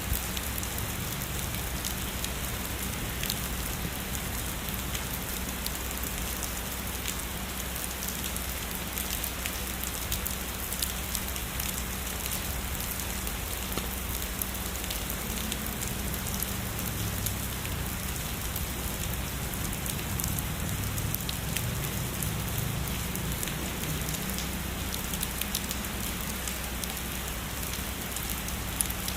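Heavy rain falling steadily, a dense even hiss with countless individual drops ticking through it.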